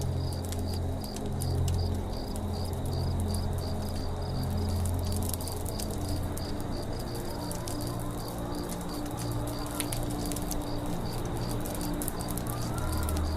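Forest campfire ambience: the fire crackles with fine, rapid pops, and a high chirp pulses steadily about three times a second. A low, sustained tone with overtones runs underneath. Short rising-and-falling bird calls come about eight seconds in and again near the end.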